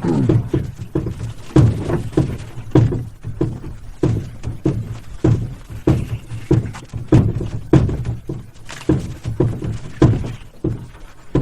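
Footsteps at a steady walking pace of someone carrying a canoe over a portage trail, each step a dull thud.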